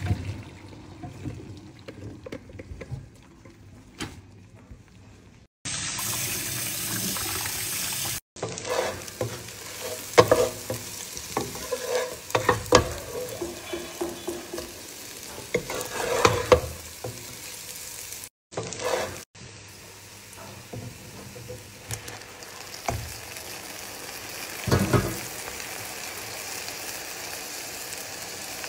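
Eggs and onion sizzling as they fry in a pot, with a wooden spatula scraping and knocking against the pot as they are stirred and broken up. A steady frying hiss runs under the strokes and goes on after they stop.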